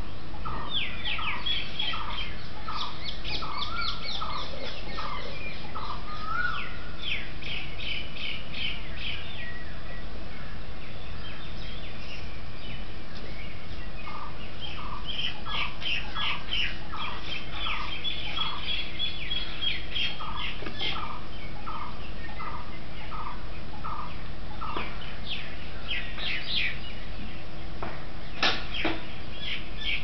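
Birds calling from the trees: a short, slightly rising note repeated about one and a half times a second in two long series, over fast high-pitched chattering trills.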